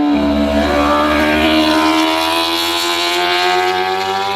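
Racing superbike engine at high revs, its pitch climbing slowly and steadily as it accelerates.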